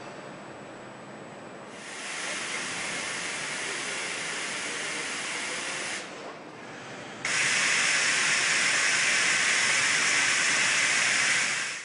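A steady hiss like escaping steam or rushing air. It comes in about two seconds in, drops away briefly around six seconds, then returns louder and cuts off abruptly near the end.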